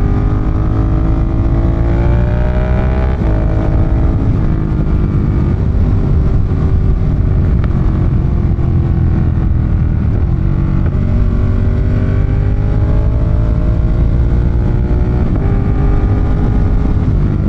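Ducati Monster 1200's L-twin engine under way. It climbs in revs over the first three seconds, drops back at a break, runs steadier through the middle, then climbs again in the second half with another break near the end. Heavy wind rumble on the microphone sits under it throughout.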